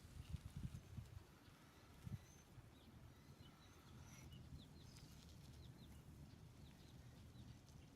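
Faint, quiet sound: a few soft low thumps in the first two seconds, then baby chicks peeping faintly with short, high, repeated peeps.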